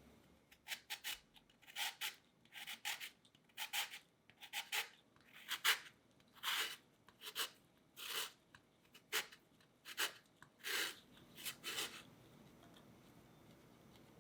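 A lemon being zested on a fine grater: about a dozen short scraping strokes at an uneven pace, stopping a couple of seconds before the end.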